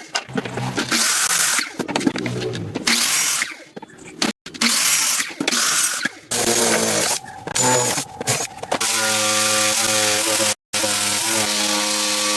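Power tools working wood, heard in several short clips that cut abruptly from one to the next: harsh cutting and grinding noise, then from about nine seconds a motor running steadily with a low hum.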